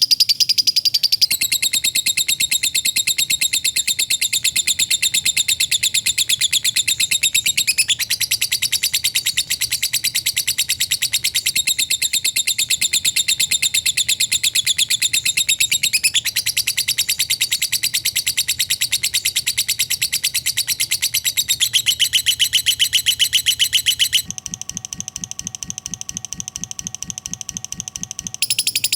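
Lovebird ngekek: a long, very fast, unbroken chattering trill, high-pitched, shifting up or down in pitch every several seconds. For about four seconds near the end it turns quieter, lower and buzzier, then the high trill comes back.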